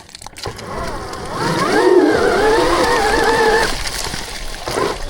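Electric motor of a 72-volt electric dirt bike whining under throttle in mud, the whine wavering slightly in pitch, starting about a second and a half in and stopping at around four seconds.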